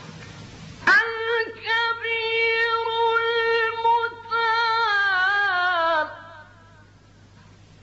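A Quran reciter's solo voice chanting in maqam Bayati. One long, ornamented phrase starts about a second in, is held with wavering turns, and glides down in pitch as it ends near the six-second mark.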